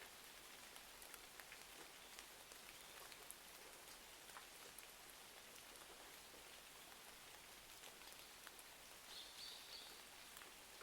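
Faint, steady rain with scattered small ticks of drops. About nine seconds in there is a brief high chirp.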